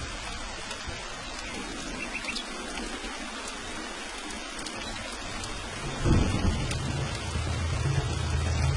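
Steady rain falling, with a low rumble of thunder that starts suddenly about six seconds in and grows louder towards the end.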